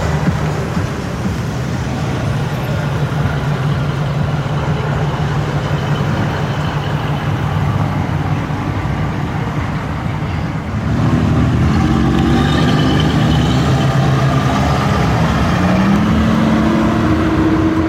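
Muscle car V8 engines rumbling at low revs as cars pass, then about eleven seconds in a louder engine revving up, its pitch rising twice as it accelerates.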